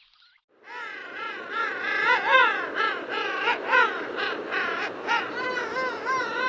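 A group of animals calling over one another: many overlapping, fairly high calls whose pitch wavers up and down, starting suddenly after a brief pause about half a second in.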